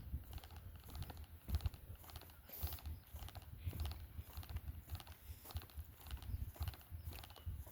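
Faint footsteps on a dirt trail, a walker's steady pace of about two steps a second.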